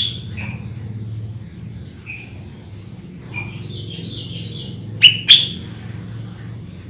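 Sooty-headed bulbul (kutilang) chirping: scattered soft high notes, then two sharp loud chirps about five seconds in, over a faint low steady hum.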